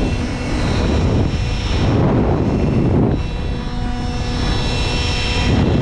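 Loud rushing air over a steady motor hum and whine, swelling and easing several times.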